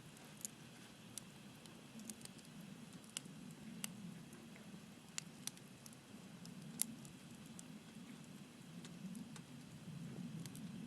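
Wood fire crackling, with sharp irregular pops over a low steady rumble. One pop about two-thirds of the way through is louder than the rest.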